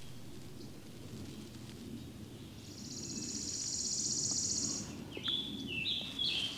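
Songbirds singing in spring woodland: a high, buzzy trill lasting about two seconds near the middle, then a run of short notes, each falling in pitch, near the end.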